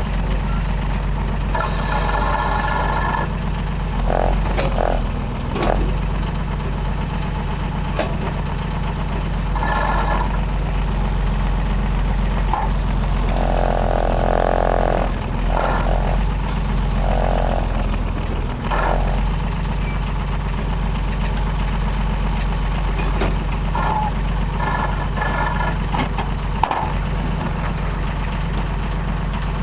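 Timberjack forwarder's diesel engine running steadily at a low, even pitch. Short, higher-pitched sounds come and go over it.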